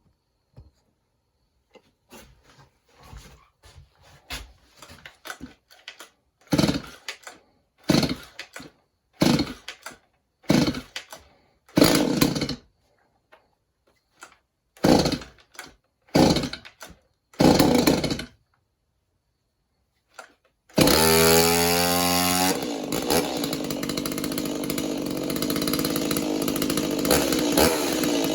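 Stihl 017 two-stroke chainsaw being pull-started: a run of short pulls on the starter rope, about one every second or so, then a pause. About 21 seconds in the engine catches, its pitch rising as it revs up, and then it keeps running steadily.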